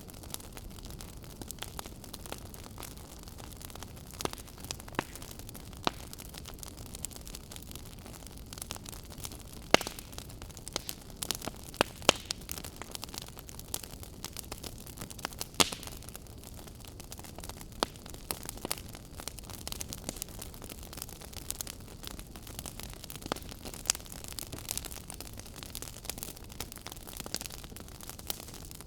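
A fire crackling: irregular sharp pops and snaps over a steady low rushing hiss, with a few louder cracks in the middle.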